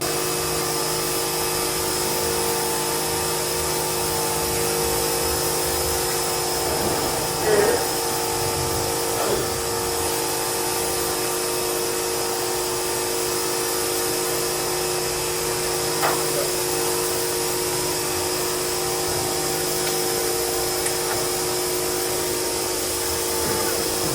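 A steady mechanical whir of a running motor, with a couple of brief knocks about seven seconds in and again around sixteen seconds.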